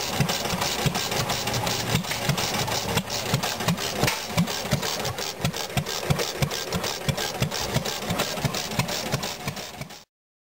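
Vintage stationary engine running with a steady low thump, about three firing strokes a second. It cuts off abruptly near the end.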